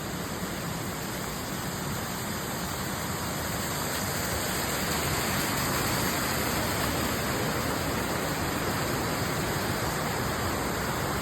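Waterfall rushing, a steady noise of falling water that grows a little louder partway through.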